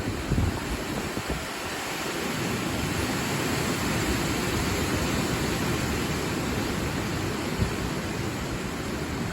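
Gusty wind rushing through the crowns of large forest trees, leaves rustling in a steady broad hiss. Low buffeting of wind on the microphone is strongest in the first half-second, and the rush swells slightly a couple of seconds in.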